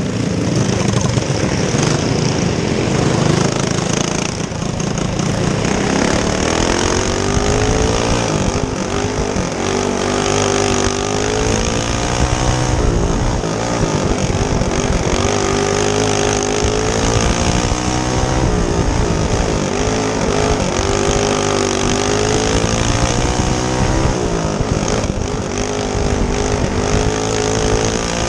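Single-cylinder four-stroke clone go-kart engine running hard on a short dirt oval, the revs climbing and then dropping again in repeated cycles a few seconds apart as it accelerates down the straights and backs off for the turns.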